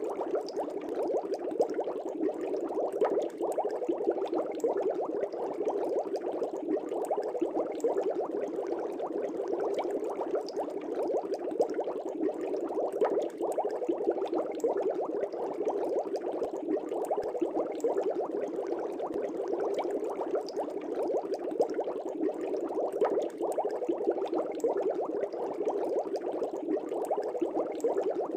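Aquarium air bubbles rising and popping at the water surface in a steady, dense bubbling.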